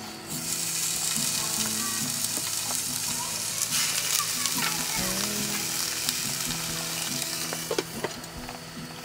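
Steak sizzling in a hot pan, a loud hiss that starts suddenly as the meat goes in and eases slightly near the end.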